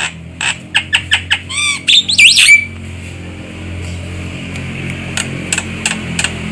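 Javan myna (jalak kebo) calling: a run of sharp clicks, then about two seconds in a quick, loud burst of calls that sweep up and down in pitch, followed by scattered fainter clicks. A low steady hum lies underneath.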